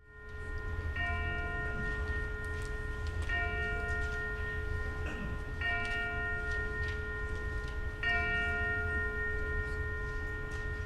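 Church bell tolling, struck four times at even intervals of about two and a half seconds, each strike ringing on into the next.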